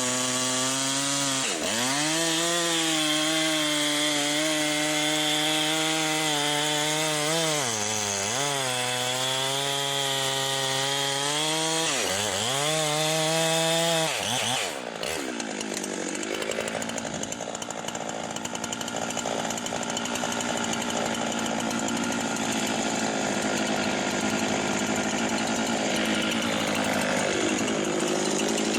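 Husqvarna 390 XP two-stroke chainsaw running at full throttle, its pitch dipping and recovering three times as it bogs in the cut. About halfway through it drops to a lower, rougher sound.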